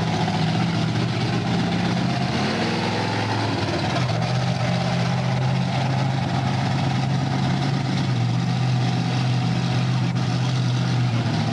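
Monster truck engine running at a steady low speed, its pitch stepping slightly a few times.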